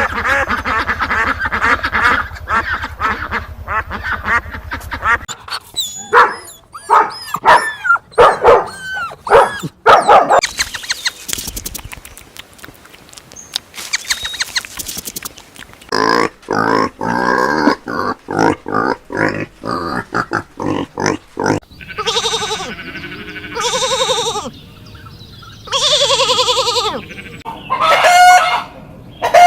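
A run of different farm animal calls, one kind after another, cut together in quick succession: repeated pitched calls, short honks and grunts, and longer cries.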